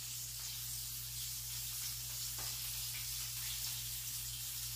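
Battered cauliflower pieces frying in hot oil in a pan on the stove: a steady sizzle, with a faint low hum underneath.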